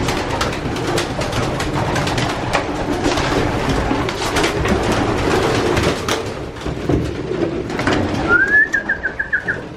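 Many racing pigeons cooing together in a loft, with scattered sharp clicks through it. Near the end comes a short, high, rapidly repeated chirp.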